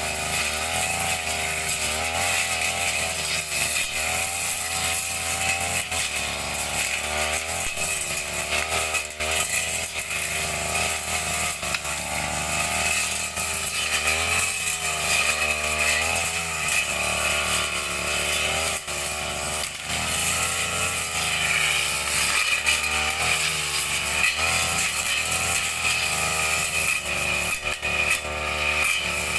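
Brush cutter engine running continuously under cutting load, its pitch rising and falling again and again as the operator works the throttle through grass and brush.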